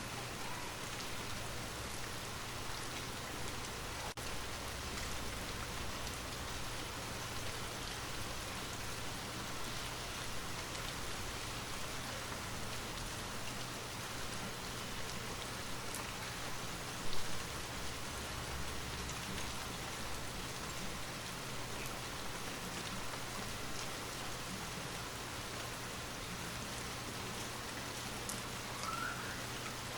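Steady rain falling, an even hiss of drops on a surface, with one brief louder spot a little past halfway.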